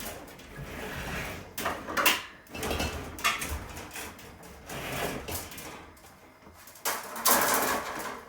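Handling noise from work on a refrigerator: irregular knocks and clatter with scraping rustles in between, the loudest scraping stretch near the end.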